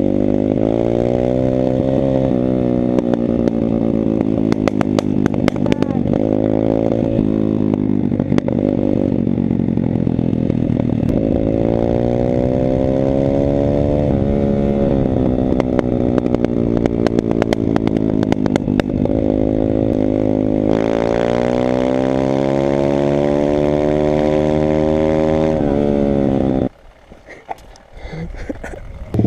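Pit bike's small single-cylinder four-stroke engine being ridden hard, its pitch climbing and falling over and over as the rider accelerates and shifts, with scattered clicks and rattles. Near the end the engine sound drops away sharply for about two seconds, then returns.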